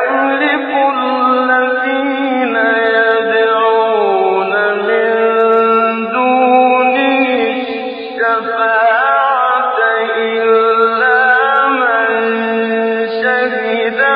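A man reciting the Quran in the melodic, drawn-out mujawwad style, holding long ornamented notes in a continuous phrase. The recording is old and thin, lacking its high end.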